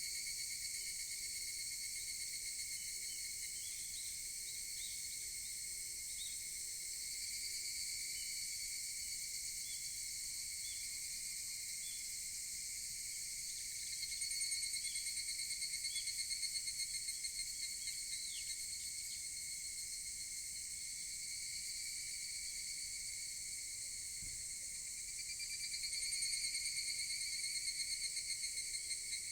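Higurashi (evening cicadas) calling in a steady high chorus. A louder, rapidly pulsing trill swells up about halfway through and again near the end.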